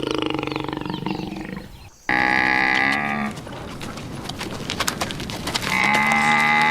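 Cattle mooing: one long low moo cut off about two seconds in, then two shorter, higher, level-pitched moos, the last near the end.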